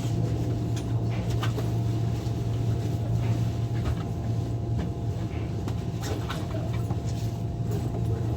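Inside a Lyon Metro line B train: a steady low electrical hum with a thin constant higher tone, and scattered light clicks and knocks from the car.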